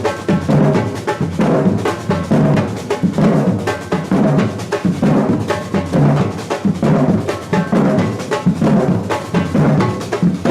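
Batucada samba drum group playing a steady beat: deep bass drums under dense snare-drum strokes and other hand percussion.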